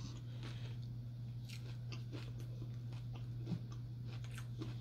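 Person eating tacos close to the microphone: faint, scattered chewing crunches and mouth clicks over a steady low hum.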